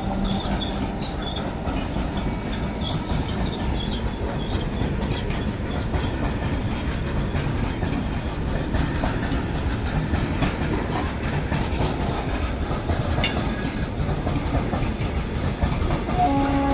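Train passing close by with a steady rumble and wheels clattering over the rail joints, with one sharp clank about thirteen seconds in. A short steady tone begins near the end.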